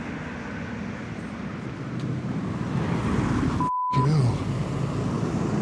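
A car passing close on the road, its noise swelling from about two seconds in and loudest in the second half. A short beep tone, as used to bleep out a word, cuts in about two-thirds of the way through.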